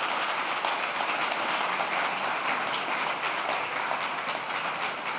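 Conference audience applauding, a steady patter of many hands clapping that eases off slightly near the end.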